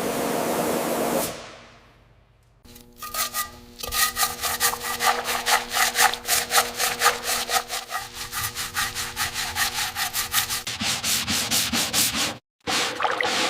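Hand sanding: quick, even back-and-forth rubbing strokes, about four a second, starting about three seconds in after a steady rushing noise fades out.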